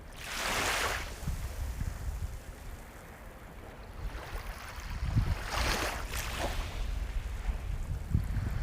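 Ocean waves washing onto the shore: one wave surges in about half a second in and another around five to six seconds in, over a steady low rumble of surf.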